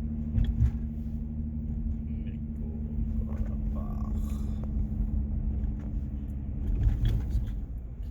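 Car driving, heard from inside the cabin: a steady low engine and road rumble with a steady hum, and two short thumps, about half a second in and near seven seconds, from bumps in the road. The hum fades out near the end.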